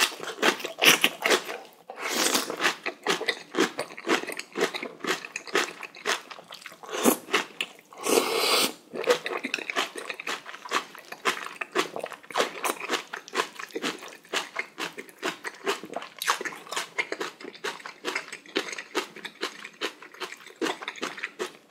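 Close-up chewing of a large mouthful of napa cabbage kimchi: wet, crunchy biting and smacking in quick, irregular strokes, with a few louder airy sounds about two, seven and eight seconds in.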